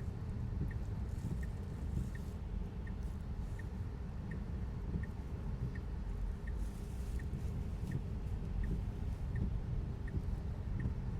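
Car turn signal ticking evenly, about once every 0.7 s, over a steady rumble of tyre and road noise on a wet, snowy road.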